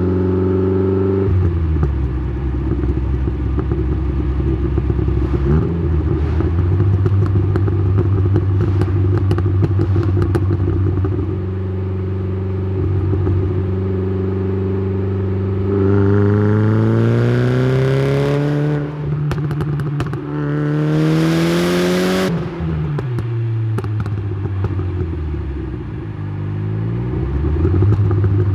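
Tuned Saab 9-3's B204 2.0-litre turbocharged four-cylinder heard through the exhaust: running steadily with scattered crackles, then two hard pulls past the middle, the revs rising, dropping at a gearchange and rising again with a rushing hiss, before falling away when the throttle is lifted.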